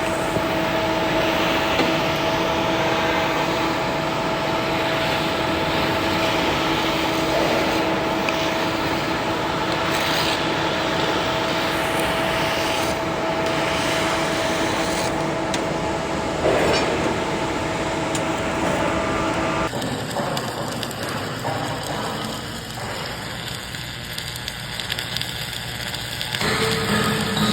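Steady machine noise with a constant hum, which cuts off abruptly about twenty seconds in and gives way to a quieter, rougher noise; a new hum comes in near the end.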